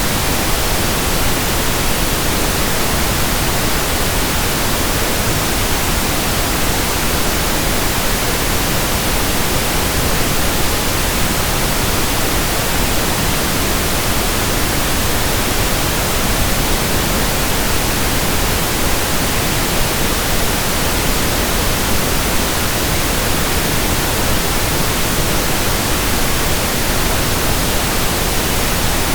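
Steady pink noise: an even, unbroken hiss spread across all pitches, at a constant level.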